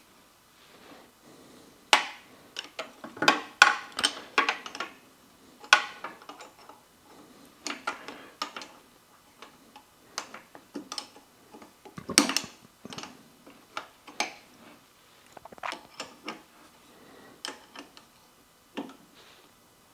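Irregular clicks, clinks and knocks of metal parts and hand tools being handled, with a denser cluster a couple of seconds in and a heavier knock about twelve seconds in.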